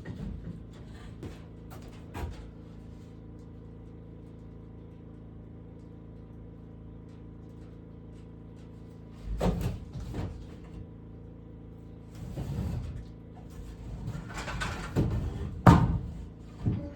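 Scattered knocks and thumps, as of wooden things being moved and set down, over a steady low hum. The knocks are louder and come closer together near the end, with one sharp knock the loudest.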